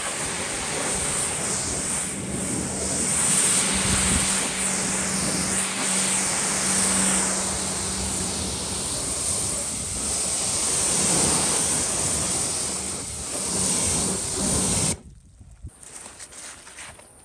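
Pressure washer spraying: a steady rushing hiss of water over the pump's low, even hum, stopping abruptly near the end.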